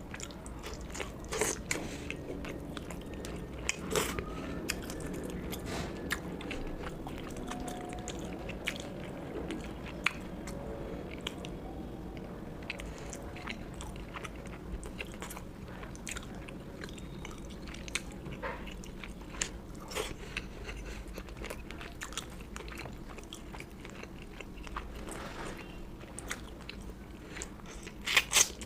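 Close-miked chewing and biting of a rice-and-curry meal: wet mouth sounds with scattered sharp crunches and clicks, and a quick run of louder clicks near the end.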